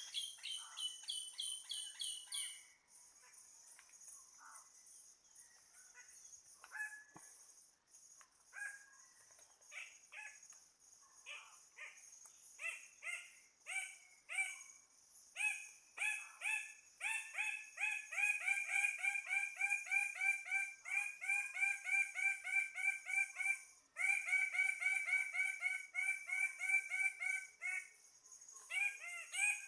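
Forest birds calling: scattered calls build into a long, loud run of quick repeated notes from one bird, briefly broken about two-thirds of the way through, over a steady high-pitched drone.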